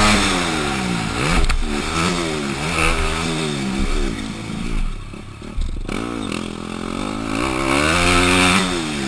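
Honda CRF250 motocross bike's four-stroke single-cylinder engine revving hard and easing off over and over as it is ridden around the track. It drops quieter for about a second a little past the middle, then climbs in pitch again.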